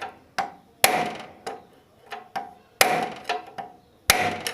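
Hammer striking a large screwdriver set against the front drum brake nut of a Royal Enfield, about eight sharp blows at an uneven half-second pace, each with a short metallic ring. The nut is jammed and is being knocked round to tighten it.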